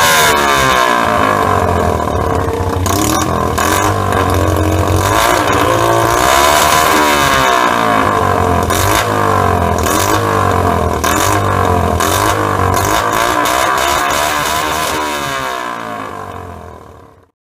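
Romet CRS 50 4T's 50cc four-stroke single-cylinder engine running loud through an aftermarket imitation Akrapovič exhaust, its pitch rising and falling again and again as it is revved. It fades out near the end.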